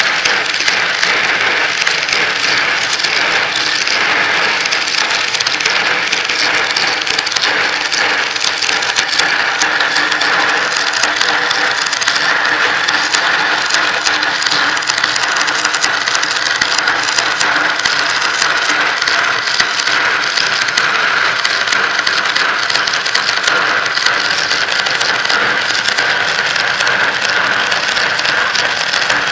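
Many glass marbles rolling and clicking continuously along a marble run, a dense, steady clatter with no pauses.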